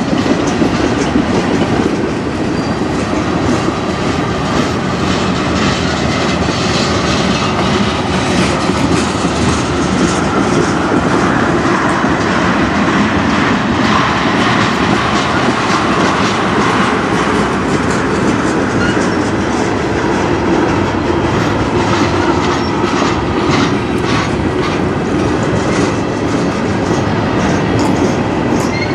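Freight cars of a CN manifest train, tank cars and then a covered steel-coil car, rolling past close by: a steady rumble of steel wheels on rail, with repeated clacks as the wheels cross rail joints.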